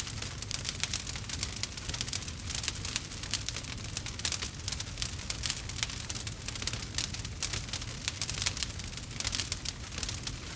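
Wood campfire crackling steadily: a dense run of quick, irregular snaps over a low rumble.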